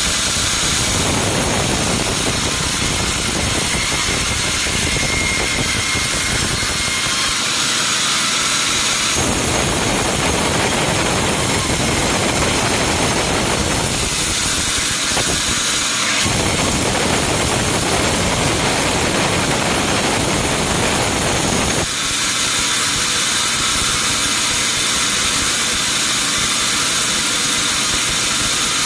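Sawmill machinery running: a loud, steady noise whose character changes abruptly several times.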